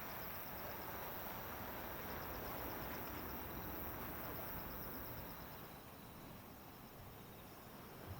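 Insects chirping in short repeated trills over a steady wash of outdoor background noise. The noise drops away about five seconds in.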